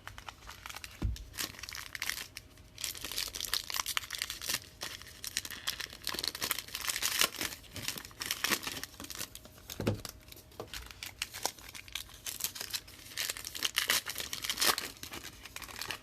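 Plastic wrapping on trading-card boxes or packs crinkling and tearing as it is pulled off, in an irregular run of crackles with a couple of soft knocks.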